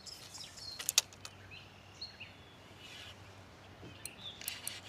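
Birds chirping, with a single sharp click about a second in and a run of small clicks and knocks near the end.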